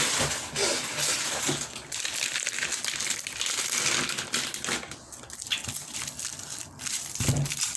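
Plastic packaging of modelling clay crinkling and crackling as it is handled and turned over to find its opening.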